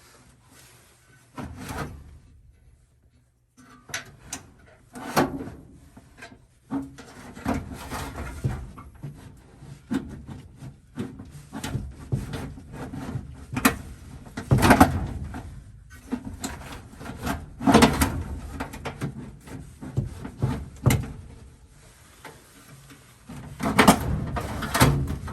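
Irregular knocks, scrapes and rubbing of objects being handled, with louder clunks every few seconds.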